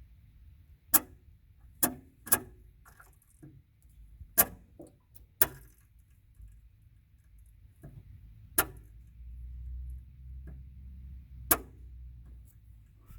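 Sharp, irregular clicking chirps from a Jeep CJ3, about seven over the span, heard over a low steady rumble.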